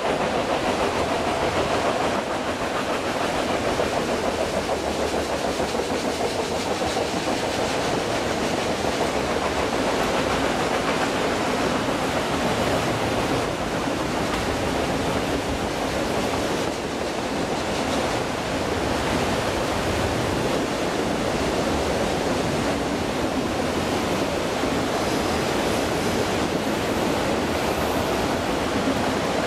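Autorack freight cars rolling past: a steady noise of steel wheels running on the rails, with no break in level.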